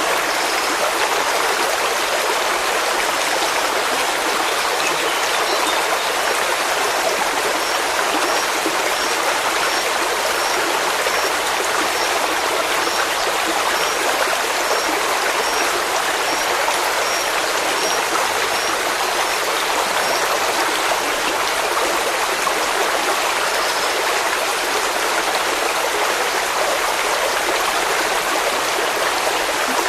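Steady rushing of a flowing stream, with no break or change. From about 7 to 20 seconds in, a faint series of short high chirps repeats over the water, about one and a half per second.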